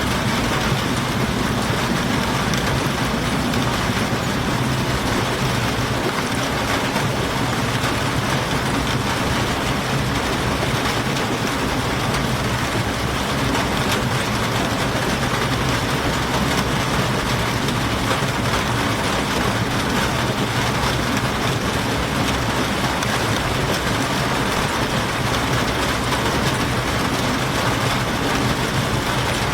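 Steady rain heard from inside a train cabin, an even hiss with no breaks, over a low steady rumble.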